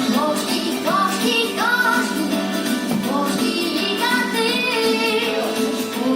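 A song: voices singing a melody over steady instrumental accompaniment.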